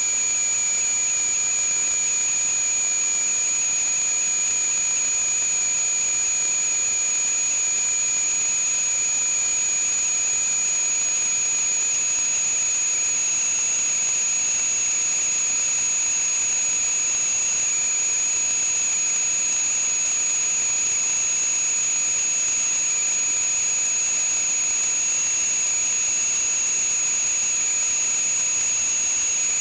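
A steady hiss with high whistling tones, unchanging in pitch and level throughout.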